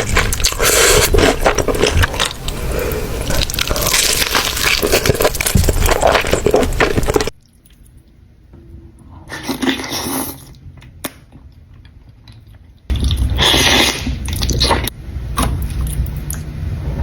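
Close-miked eating of Buldak spicy ramen noodles, with busy chewing and mouth noises. The sound drops off suddenly after about seven seconds to a much quieter stretch with one brief burst, then comes back just as suddenly for the last few seconds.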